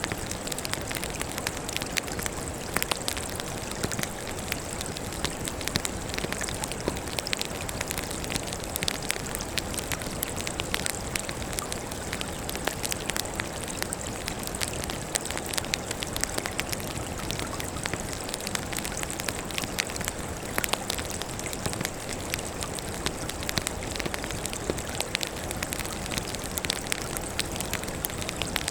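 Firewood burning in a campfire, crackling steadily: many small sharp pops and snaps over a constant soft hiss.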